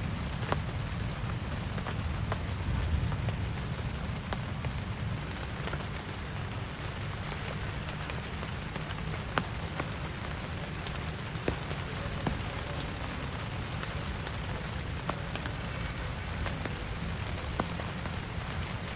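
Steady heavy rain, with a deep low rumble underneath and single drops knocking sharply every second or two.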